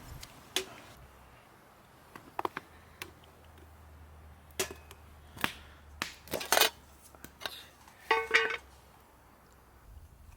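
Camp gear being handled: a scattering of sharp clicks and knocks, then a short ringing metallic clink about eight seconds in.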